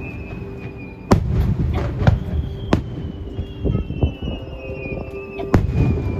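Aerial fireworks shells bursting: four sharp bangs a second or more apart, the first and last the loudest, each followed by a rumble and crackle.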